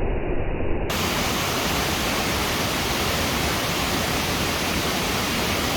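Waterfall's steady rush of falling water. For about the first second it sounds dull, cut off in the treble, then it opens into a full, bright hiss.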